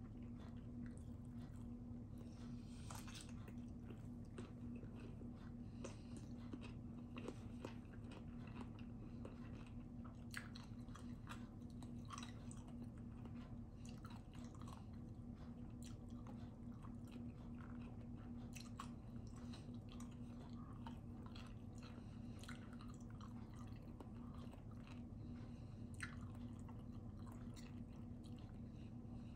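A person chewing and biting food close to the microphone, with many small wet clicks and light crunches, over a steady low hum.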